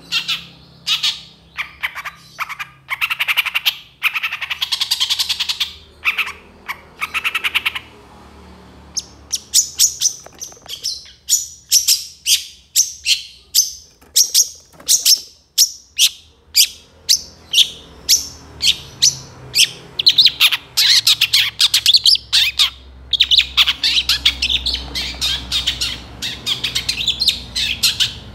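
Long-tailed shrike (cendet) singing: short bursts of rapid chattering song, then from about nine seconds a long run of sharp, evenly spaced notes at about three a second, breaking back into dense, continuous chattering around twenty seconds in.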